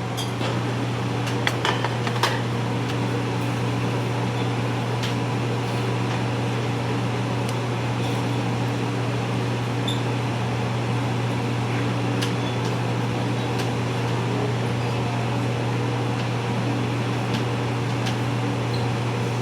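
Steady low mechanical hum, with a few light clicks and taps about one and a half to two seconds in.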